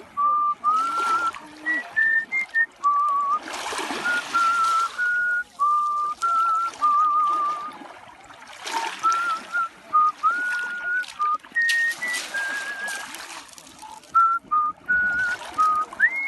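Artistic mouth whistling: a single pure whistled tone carrying a melody of short and held notes, with vibrato on the held notes and slides up into some notes, ending on a quick rise to a high note. A rushing, water-like noise comes and goes behind it.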